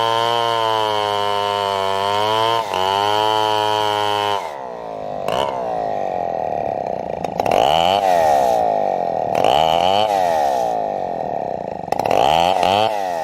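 Two-stroke chainsaw running at high speed for about four seconds, with two brief dips, then dropping to a lower speed and revving up and down three times.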